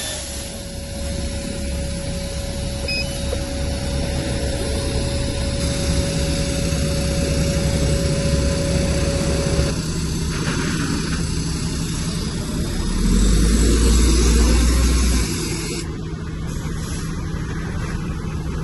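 Heavy diesel engine of earthmoving machinery running steadily, with a thin steady whine over it for the first half. About two-thirds of the way through, a louder deep surge lasts a couple of seconds as the engine takes load.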